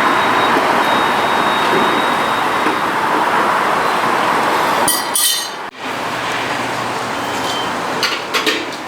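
A car on the move: steady engine and road noise with no clear pitch. About five and a half seconds in it drops suddenly to a quieter stretch of the same kind, with a few sharp clicks near the end.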